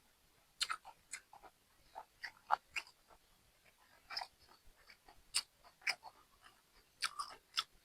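A person chewing and eating, with irregular short crunches and mouth clicks.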